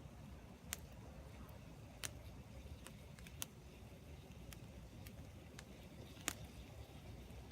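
Burning firewood crackling in a fire pit: a few scattered sharp pops, the loudest about six seconds in, over a faint low rumble.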